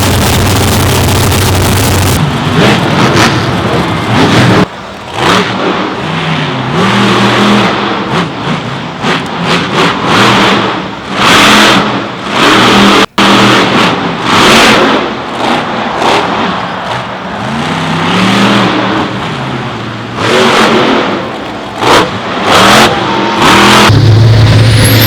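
Race truck engines revving and accelerating on a track, the engine note rising and falling repeatedly, with a few abrupt cuts between passages.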